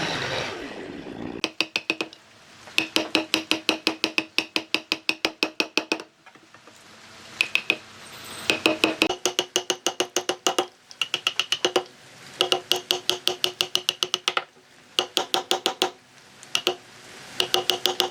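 Rapid runs of sharp ringing strikes, about five a second, in bursts of one to three seconds with short pauses between them, like a hammer striking metal during the woodwork.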